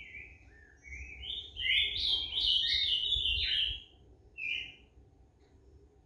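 A songbird singing a quick run of chirps and short whistled notes that rise and fall, from about a second in to nearly four seconds, then one short note about half a second later.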